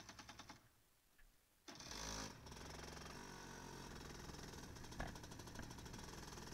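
Kart engine being cranked with a rapid rhythmic chatter that stops, then about a second later firing up suddenly, revving briefly and settling into a steady idle.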